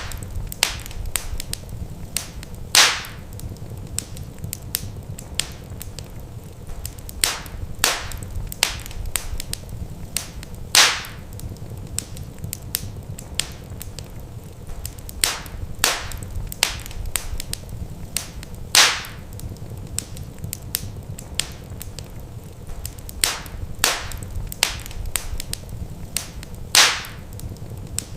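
Wood fire crackling in a fireplace: a constant scatter of sharp snaps over a low steady rumble, with a louder pop about every eight seconds.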